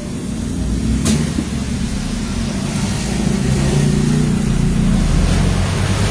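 Low, uneven mechanical rumble with a sharp click about a second in, growing slightly louder.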